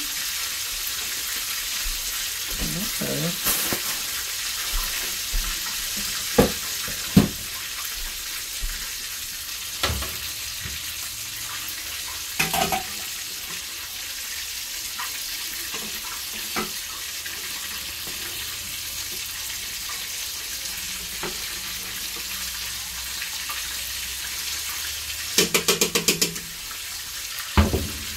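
Chicken frying in hot oil, a steady sizzle, with scattered sharp knocks and a quick rattle of clicks near the end.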